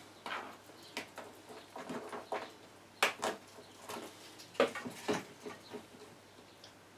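Irregular light clicks and knocks, a dozen or so, the loudest about three and five seconds in: the handling noise of small parts being worked by hand.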